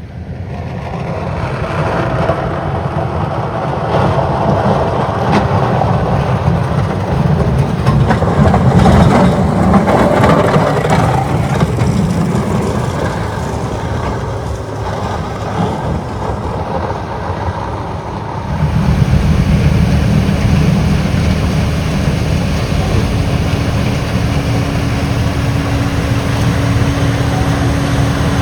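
Diesel engines of motor graders working a snow windrow: the sound builds as a machine comes close and then eases as it moves off. About two-thirds through it changes abruptly to a steady heavy diesel drone with a constant hum, from the Larue D60 snow blower making its final pass.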